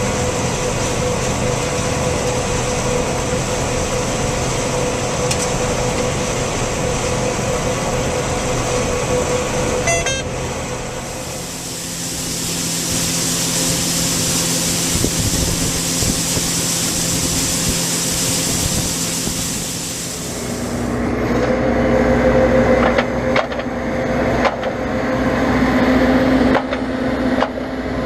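Harvest machinery engines running steadily, in separate stretches. A droning hum with a steady tone runs for the first ten seconds or so. It cuts off suddenly and gives way to a loud, even hiss for about ten seconds. Then a different engine drone comes in near the end, with scattered clicks and knocks.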